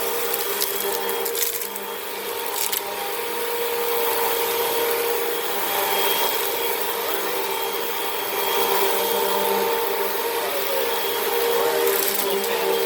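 Vacuum cleaner running steadily with a constant motor whine, its brush roll agitating a gray rug on carpet-height setting 2 to pull sand out of the pile.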